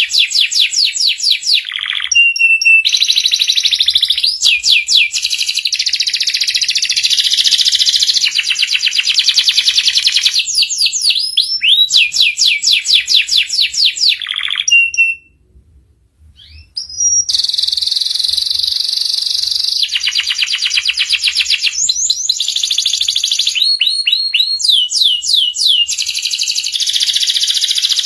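Young domestic canary singing: phrases of rapid repeated notes and fast trills, with a pause of about two seconds halfway through.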